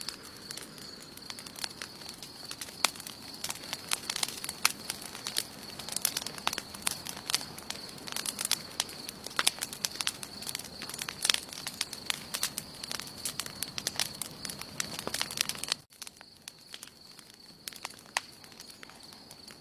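Campfire burning, with dense crackles and sharp pops from the burning wood over a low rush of flame, and a steady high tone throughout. About 16 s in the sound drops abruptly to a quieter, sparser crackle.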